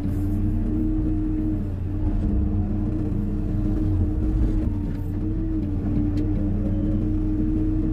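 Hyundai 140 wheeled excavator's diesel engine running steadily under working load, its note wavering slightly in pitch, with a few faint clicks.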